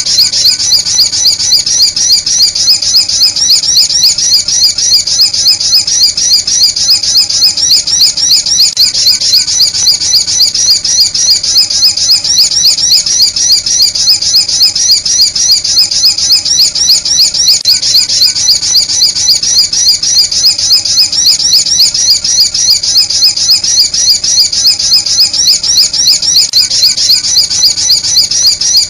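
A sunbird lure-call recording: loud, high-pitched chirping calls repeated rapidly and evenly, a few a second, without a break.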